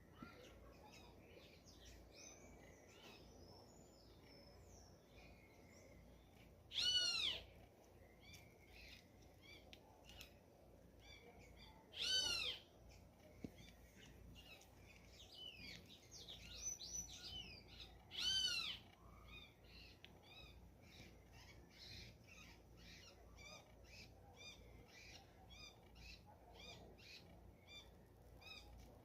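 Outdoor animal chorus: many small bird chirps and trills, with a louder drawn-out call rising and falling in pitch three times, about every six seconds.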